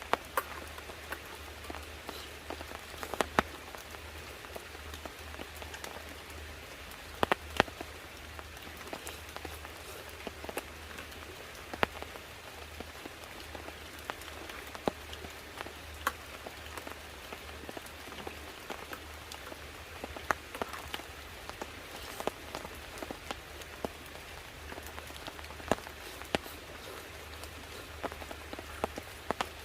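Steady rain falling, with irregular sharp drops tapping loudly over it.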